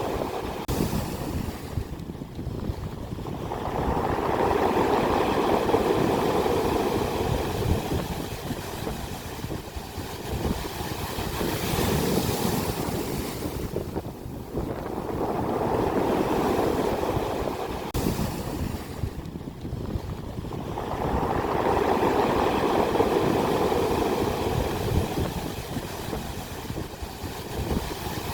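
Ocean waves breaking on the shore and washing back. The rushing noise swells and fades in slow surges every several seconds, three times over.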